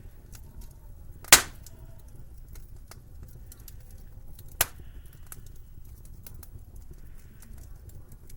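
Wood fire crackling with scattered small ticks over a low rumble, and two sharp pops: a loud one just over a second in and a weaker one past the middle.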